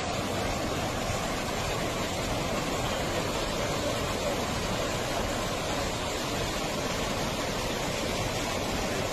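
Fast-flowing river water rushing steadily, an even unbroken noise.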